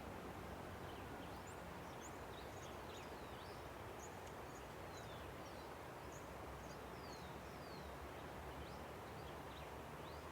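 Steady rushing of a river, with many small birds chirping over it in short high notes that sweep up and down. The chirping is busiest through the middle of the stretch.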